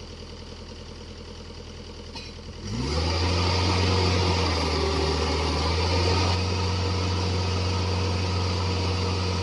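Excavator diesel engine idling, then revving up quickly about three seconds in and holding steady at high revs, beginning to drop back right at the end.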